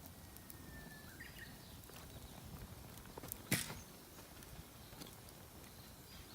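Campfire of damp firewood crackling faintly, with scattered small ticks and one sharp pop about three and a half seconds in.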